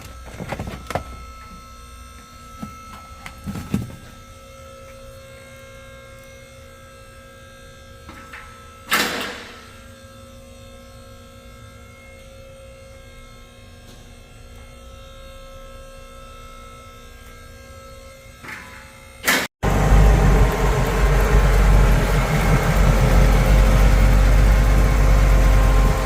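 A steady electrical hum with a few scattered knocks, then, after a sudden cut about two-thirds of the way in, a loud, steady car engine running with a deep exhaust rumble, from the 1968 Pontiac Firebird.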